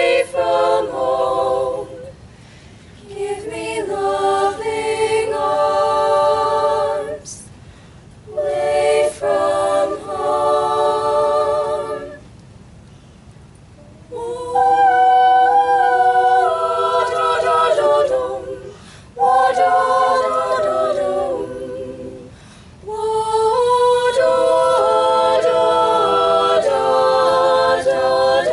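High school chamber choir singing a cappella in several voices, in long phrases broken by short pauses.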